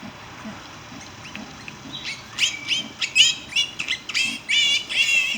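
Newborn Kune Kune–Juliana cross piglets squealing at the sow's teats, a rapid string of short high-pitched squeals starting about two seconds in, over the sow's soft grunting repeated about twice a second, the grunting she keeps up while nursing.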